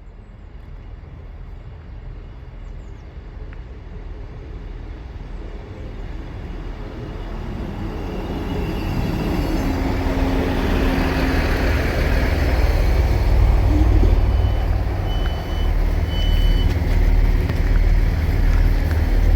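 A passenger train approaching and pulling into the station, its low rumble growing steadily louder, with a few short high tones about fifteen seconds in.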